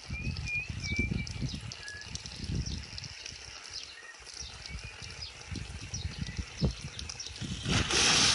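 Birds chirping outdoors over uneven low rumbling noise, with the chirps fading after the first second or so. Near the end comes a sudden loud rushing noise, the loudest sound here.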